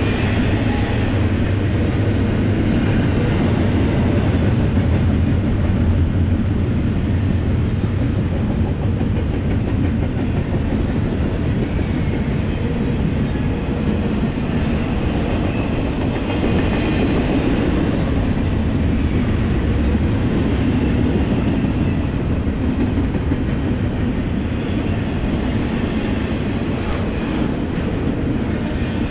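Double-stack intermodal well cars of a freight train rolling past: a steady rumble of steel wheels on rail that does not let up.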